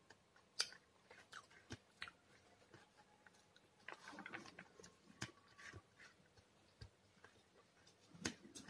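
Close-up eating sounds of rice eaten by hand: soft chewing and wet mouth clicks, with sharp scattered clicks. The loudest clicks come about half a second in and near the end.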